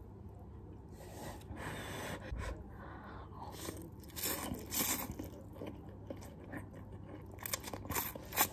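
A person eating instant hot and sour noodles: irregular chewing and short mouth sounds, loudest about four to five seconds in and again near the end.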